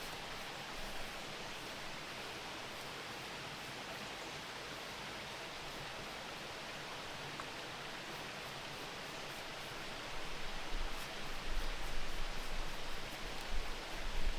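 Steady outdoor noise, an even hiss with a soft rustle, joined by uneven low rumbling in the last few seconds.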